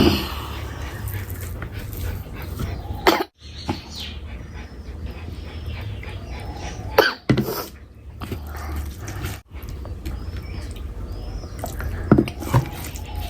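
Close-miked chewing and wet mouth sounds of a person eating rice and curry, with louder smacks near the start and about 3, 7 and 12 seconds in. A low steady hum runs underneath.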